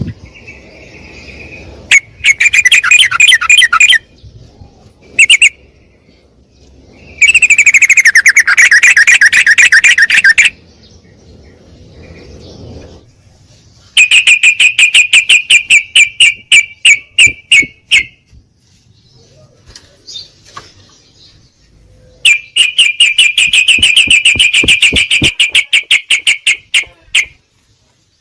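Yellow-vented bulbul (trucukan) singing in four bursts of rapid, chattering repeated notes. The second burst falls in pitch. The third loosens into separate notes near its end.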